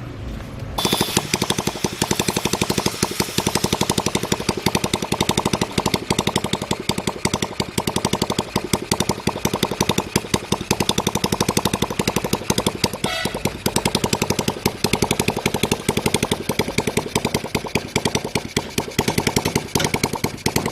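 Restored 110cc Honda single-cylinder four-stroke engine starting up about a second in and running steadily, with rapid, even firing pulses.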